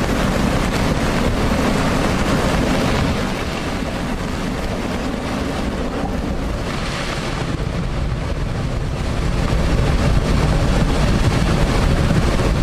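Floodwater rushing steadily, with wind noise on the microphone.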